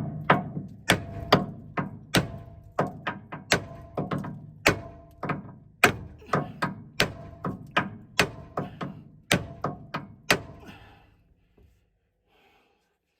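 Steady hammering on metal, about 25 sharp blows at two to three a second with a faint ring, driving at the bearing cups of a universal joint on an excavator's drive shaft to free the joint after its bolts would not come loose. The blows stop about ten seconds in.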